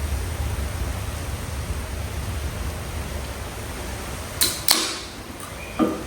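A steady low rumble, with two sharp clicks in quick succession near the end and a duller knock about a second later.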